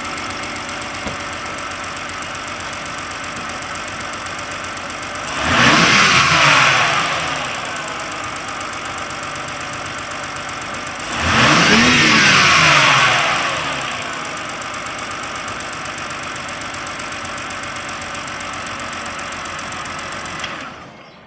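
2010 BMW 328i's inline-six idling, then revved twice, each rev rising and falling back to idle. It is running with a board wedged on its loose fuel-injector connectors, which the owner found stops the open injector circuits and the three-cylinder misfire, and it is a lot quieter for it.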